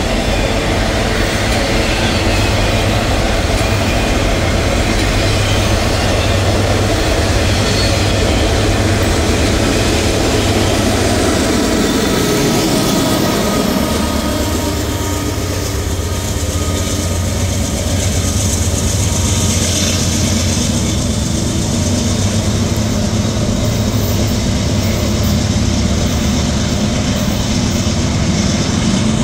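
Norfolk Southern freight train of autorack cars rolling past with a steady rumble of wheels on rail. About halfway through, the rear distributed-power diesel locomotive passes, and its engine adds a steady low drone.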